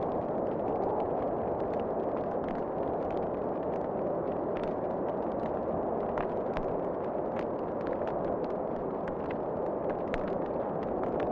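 Wood fire crackling in a fireplace: many sharp, irregular pops and snaps over a steady rushing wind.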